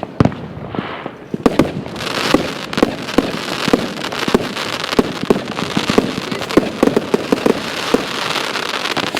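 Fireworks going off: a single bang just after the start, then from about a second and a half in a dense run of bangs and crackling in quick succession with a hissing background.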